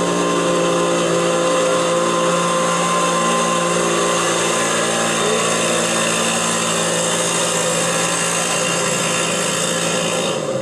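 ATV engine held at high, steady revs for about ten seconds during a pull, cutting back sharply at the end.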